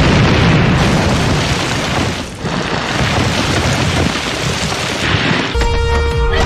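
Loud, sustained rumbling noise like an explosion or a collapse, dipping briefly about two seconds in. Near the end it gives way to music with held tones.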